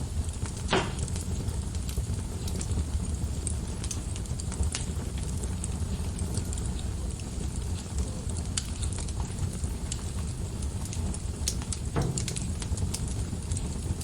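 Wood fire burning in a fireplace: a steady low rumble with scattered crackles, and two louder pops, about a second in and again near the end.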